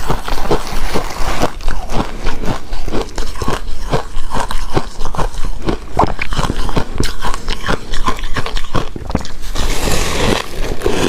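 Close-miked mouth sounds of someone chewing shaved ice: rapid, continuous crunches, with a brief icier hiss near the end.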